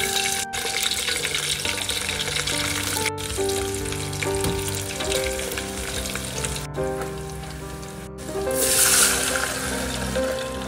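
Oil sizzling and crackling in a stainless steel pot as sliced lemongrass and aromatics are stirred in it, over background music. Near the end, liquid is poured into the hot pot and gives a loud hiss.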